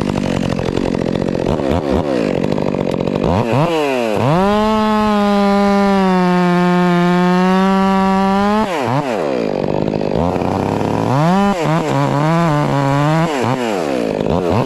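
Stihl MS 400 C two-stroke chainsaw running at low speed, then revving up about four seconds in and held at high revs for about five seconds, its pitch sagging slightly. It drops back, gives several quick throttle blips, and revs up again near the end.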